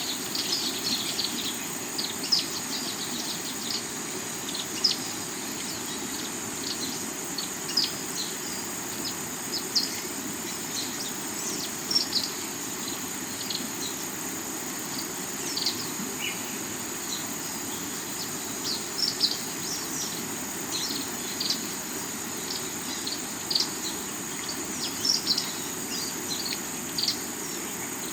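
River water running steadily over rocks under a continuous high insect trill, with frequent short bird chirps scattered throughout.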